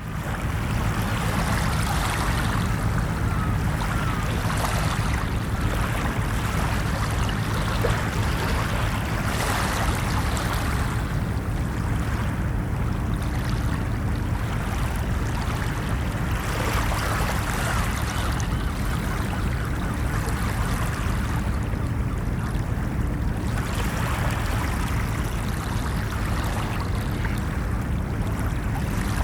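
Ocean surf washing on a beach: a steady low rumble with a wave surging and breaking every few seconds.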